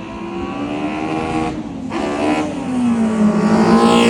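Toyota Yaris accelerating hard down a drag strip. The engine revs climb, break off briefly about a second and a half in for a gear change, climb again, then drop sharply in pitch as the car passes near the end.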